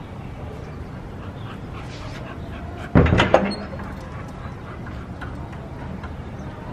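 A dog barking a few quick times about three seconds in, over a steady low background hum of city ambience.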